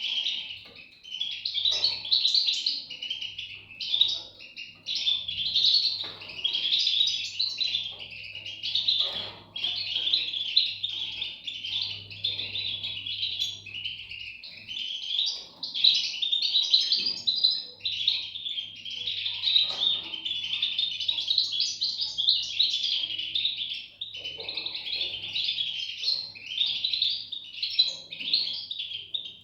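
European goldfinch nestlings chirping without pause in a dense, high-pitched chorus of overlapping calls.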